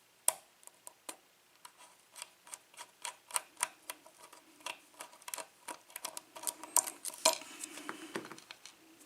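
Irregular metallic clicks and clinks from hand tools working on a small padlock as it is taken apart to remove its cap, with a longer scrape about seven seconds in.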